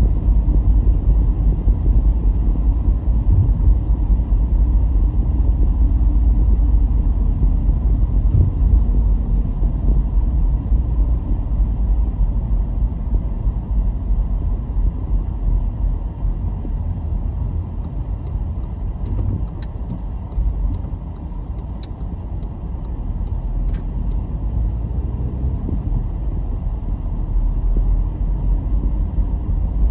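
Car driving along a road: a steady low rumble of engine and tyre noise that eases a little about two-thirds of the way through, with a few faint ticks.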